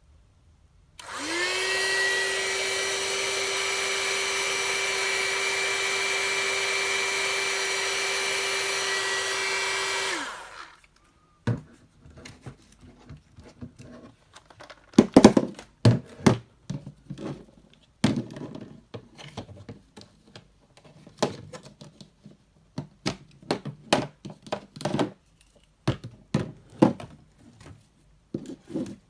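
Hot air brush (hair dryer brush) switched on about a second in, its motor running with a steady whine for about nine seconds, then switched off. After that, scattered clicks and knocks of the appliance being handled.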